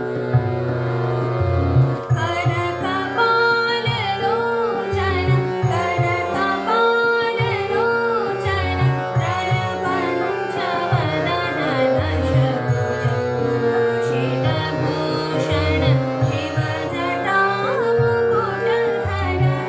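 Dhrupad in raga Purvi set to Sool taal: a woman sings a slow, ornamented melodic line, coming in about two seconds in, over a steady drone and hand-drum strokes.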